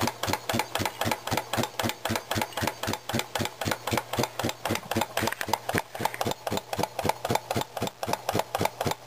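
Circa-1900 Brunner single-cylinder air compressor running, with an even, rhythmic knock of its piston at about five strokes a second. Its belt-driving 1/4 hp GE electric motor hums steadily underneath.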